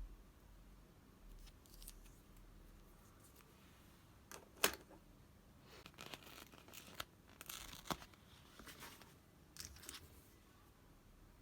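Scissors snipping paper or sticker sheet in a few short, scattered cuts with light crackling. One sharp click comes about four and a half seconds in, and the cuts bunch up over the following seconds.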